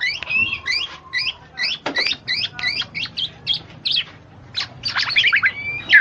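Birds chirping: a quick, continuous run of short, high chirps, several a second.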